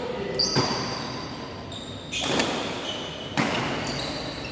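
Badminton rally: sharp racket hits on the shuttlecock three times, about half a second in, just after two seconds and about three and a half seconds in, with short high squeaks of shoes on the court between them, echoing in a large hall.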